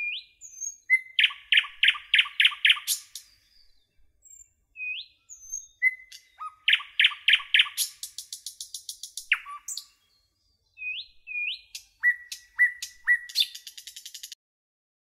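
A songbird singing three phrases, each made of quick rising whistles, a run of rapid repeated notes and a fast high trill near the end. There is dead silence between the phrases and no background noise.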